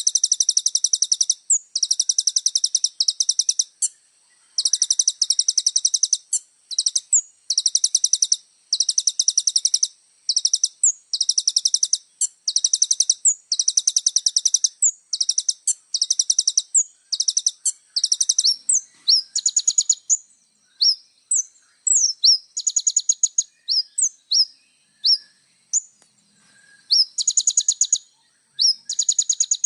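Kolibri ninja sunbird singing: high, fast, buzzy trills repeated in bursts of about half a second to a second, with short sharp sliding chips between them. From about two-thirds of the way in, the chips outnumber the trills.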